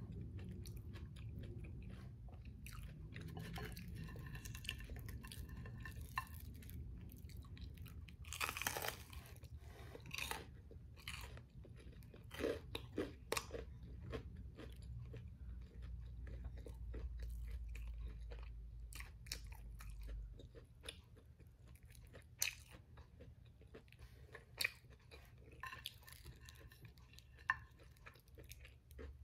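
Close-miked chewing and crunching of crisp fried battered food, with sharp crackles throughout and the loudest crunchy bites about nine and thirteen seconds in.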